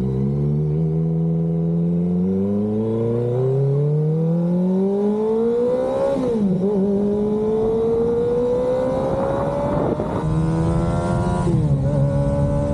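Kawasaki ZX-25RR's four-cylinder engine through an Arrow aftermarket exhaust, its note climbing steadily for about six seconds, dipping briefly, then climbing again. Near the end the pitch drops and settles into a steady, higher-pitched run.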